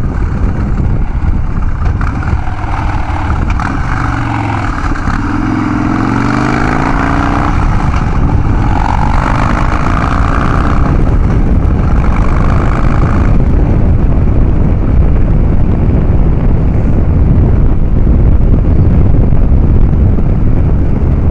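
Harley-Davidson Dyna Street Bob's V-twin engine through a Vance & Hines Big Radius 2-into-2 exhaust, running under way. Its pitch falls and then climbs again a few seconds in as the bike slows and accelerates.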